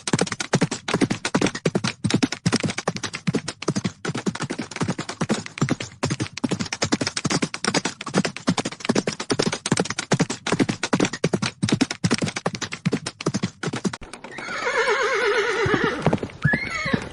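Horses galloping, a fast, dense run of hoofbeats, then a horse gives a long whinny near the end.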